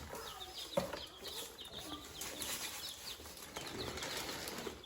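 Several baby chicks peeping: a continuous run of short, high cheeps from many birds at once, with a single brief knock about a second in.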